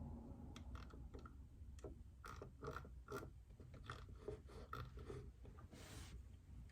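Soft, muted keystrokes on a JJK84 keyboard with Outemu Silent Peach silent linear switches: a few scattered presses, then a quicker run of about ten keys. A short rustling swish comes near the end.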